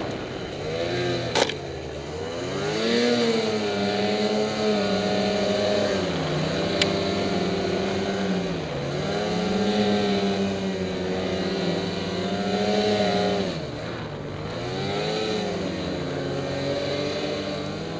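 Ski-Doo MXZ Renegade 800 snowmobile's two-stroke engine running under throttle, the revs dropping and climbing again several times and held steady in between. Two brief sharp clicks, a little over a second in and near the middle.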